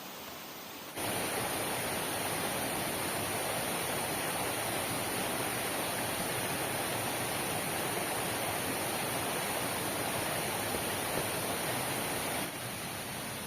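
Heavy rain falling as a steady, dense hiss, jumping abruptly louder about a second in and dropping back near the end.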